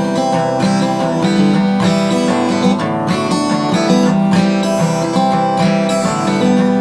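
Acoustic guitar strummed in an instrumental break between verses, a steady run of chords.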